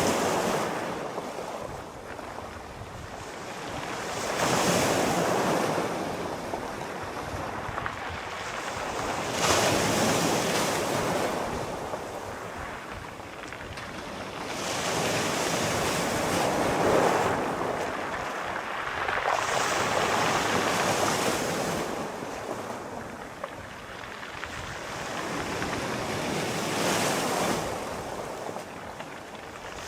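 Sea waves breaking and washing in. The rush of surf swells and falls away about every five seconds.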